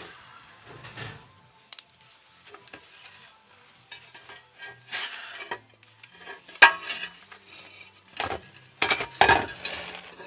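Scrap steel pieces being handled, with irregular metallic clinks, knocks and scraping. The loudest clanks come about two-thirds of the way through and again near the end.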